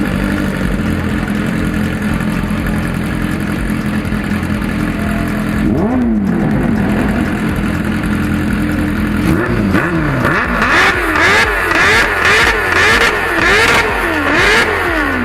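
An engine idling, revved once about six seconds in, then blipped in a quick run of revs, roughly two a second, near the end.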